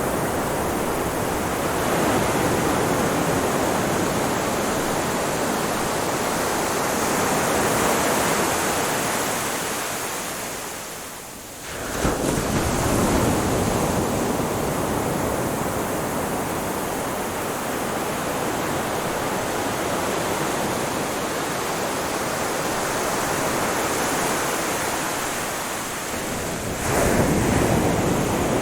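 Ocean surf washing steadily. It ebbs away, then a new wave breaks suddenly about twelve seconds in, and another breaks near the end.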